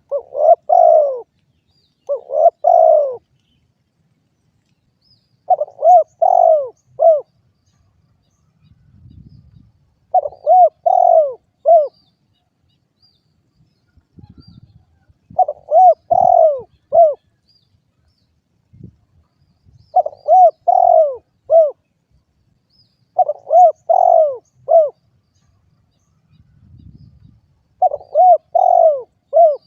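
Spotted dove (derkuku) cooing: eight phrases of several coos each, one every four seconds or so.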